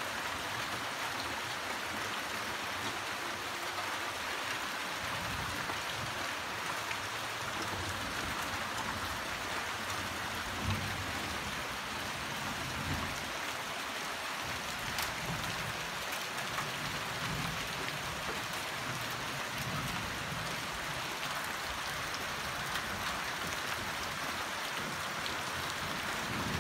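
Steady rain falling on dense tropical foliage, an even hiss that does not let up.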